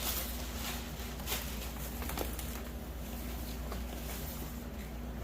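Rustling and light scattered ticks of the grow tent's thick fabric skin and its packaging being handled and unfolded, over a steady low hum.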